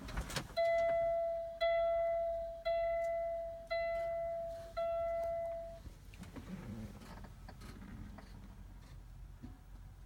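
Kenworth T680 cab's electronic warning chime sounding five times, about a second apart, each a bell-like tone that fades out. A single knock comes just before the first chime.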